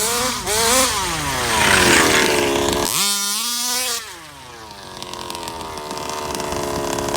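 Rovan 34cc two-stroke engine in a large-scale RC Baja on its first run, not yet broken in, revving up and easing off several times: a high buzz rising and falling in pitch. It revs sharply about three seconds in, then runs quieter and lower from about four seconds, climbing again near the end.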